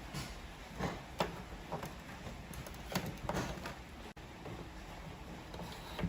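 Scattered light knocks and clicks, about eight over several seconds at uneven intervals, over a steady low background hum.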